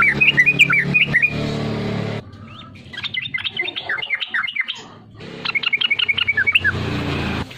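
Sooty-headed bulbul (trucukan) singing in three bursts of rapid chirping notes with short pauses between them. A low steady hum runs under the first and last bursts.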